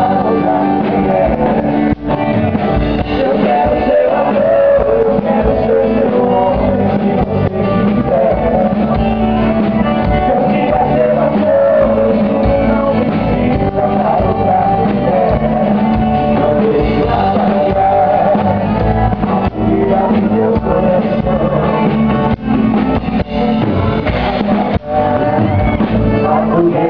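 Live sertanejo music: a male vocal duo singing over a band with guitar.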